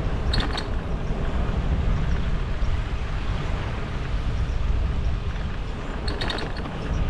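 Steady low rumble of wind buffeting the microphone while riding, with road noise underneath. Two brief bursts of short high ticks or rattles, one near the start and one about six seconds in.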